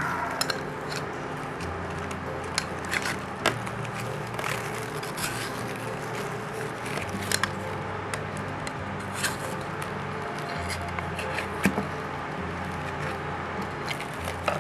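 Scraping, rustling and sharp clicks from a plant pot and its potting soil being worked by hand to loosen a root ball stuck in the pot.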